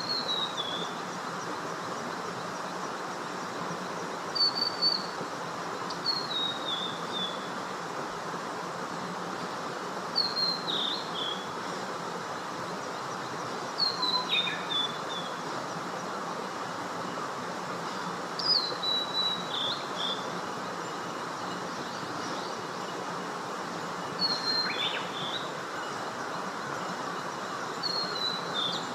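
A songbird in woodland repeats a short, high whistled song phrase every few seconds, each phrase falling in pitch and ending with a quick downward note. A steady hiss runs underneath.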